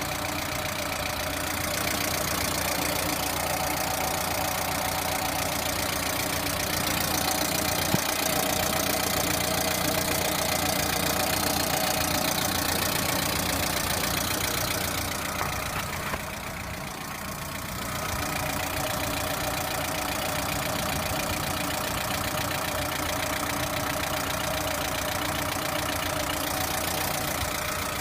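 Lada Priora four-cylinder engine running steadily at idle with a knock in it, which the uploader links to a hydraulic valve lifter. The sound turns briefly quieter and duller about sixteen seconds in.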